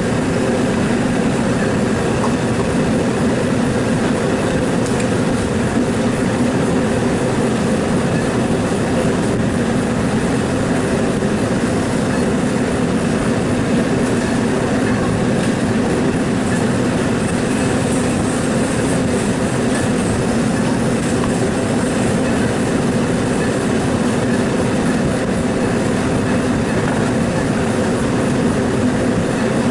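Steady, loud mechanical rumble and hiss, unbroken and even.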